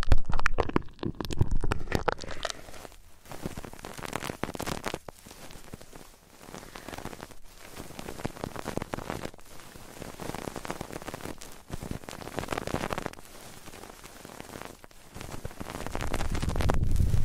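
Close-miked ASMR sounds of hands working on an ear microphone. A dense crackling and rustling comes in slow swells, with a few sharp clicks at the start and a deeper rumble near the end.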